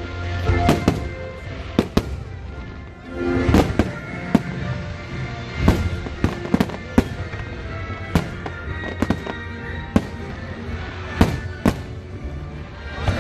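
Fireworks going off in quick succession, a dozen or more sharp bangs and crackling reports, with music playing underneath.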